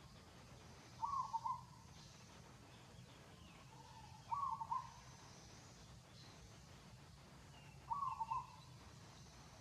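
A bird calling outdoors: a short call of about half a second, repeated three times at even gaps of roughly three and a half seconds, with faint higher chirps in the background.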